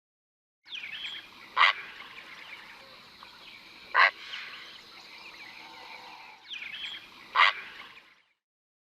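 Heron giving three loud, short, harsh squawks a few seconds apart, over a faint background of smaller birds chirping.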